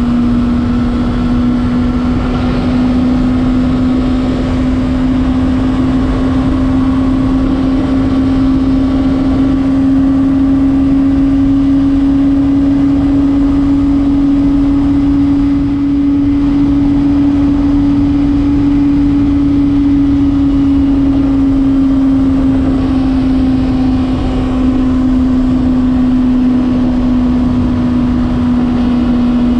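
Honda CBR600RR's inline-four engine running at a steady, high road speed, its note rising slightly through the middle and easing back near the end.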